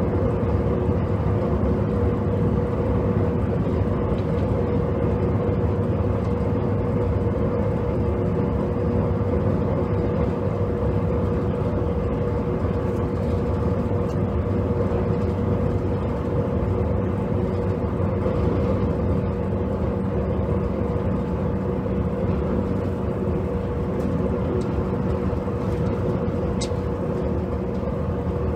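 Running sound inside the JR Kyushu 783 series motor car KuMoHa 783-7 at a steady speed: an even rumble of wheels on rail and running gear, with a constant hum.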